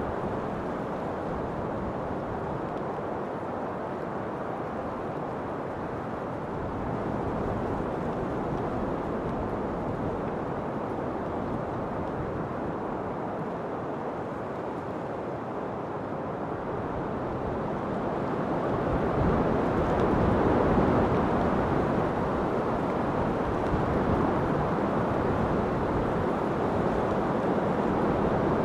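Wind blowing: a steady, low rushing noise with no distinct tones, swelling louder about two-thirds of the way through and staying up.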